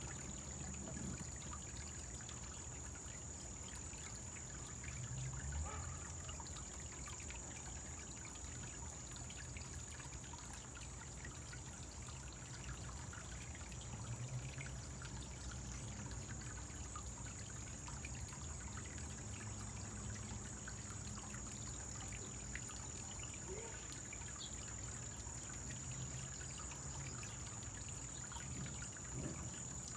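Small koi-pond waterfall trickling steadily, with a thin steady high-pitched tone above it.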